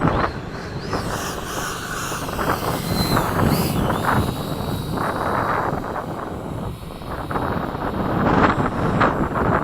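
Electric ducted fan of a 70 mm FMS F/A-18 RC jet whining in flight, its high pitch rising and falling in the first few seconds and then holding steady. Gusty wind buffets the microphone.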